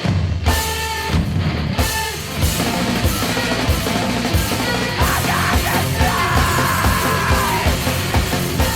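Heavy rock band playing: fast drum-kit hits under dense guitar, with held high notes coming in about halfway through.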